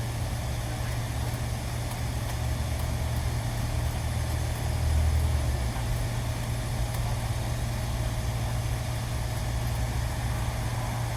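Steady low machine hum, swelling briefly about five seconds in.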